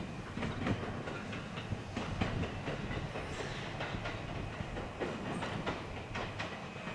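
JR West 521 series electric train running away over the station track, its wheels clicking irregularly over rail joints and points beneath a steady running rumble that eases slightly near the end.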